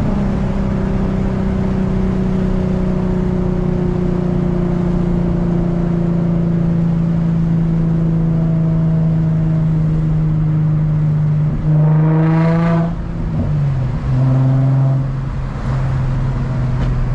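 Infiniti G35's VQ35 V6 with the muffler and resonator removed, heard from the moving car as a steady exhaust drone whose pitch sags slowly. About twelve seconds in it revs up briefly and drops to a lower note. It blips once more and settles into a lower drone.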